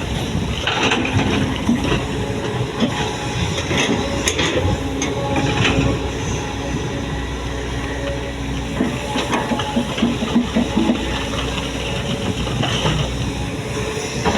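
Heavy diesel machinery, an excavator and a dump truck, running steadily, with irregular metallic clanks and knocks every few seconds.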